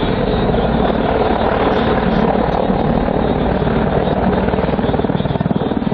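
Military helicopter flying a display, its rotor blades beating in a fast, even chop with the turbine noise running loud and steady underneath.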